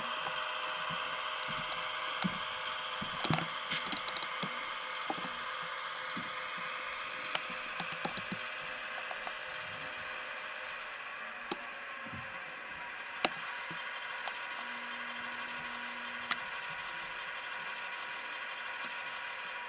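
HO-scale model diesel locomotive's Tsunami sound decoder playing a non-turbo EMD 645 engine sound through its small speaker: a steady running drone whose pitch eases down slightly in the first half, with scattered light clicks and rattles.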